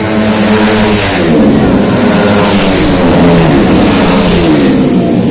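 130cc automatic scooter engine being revved, its pitch rising and falling a couple of times.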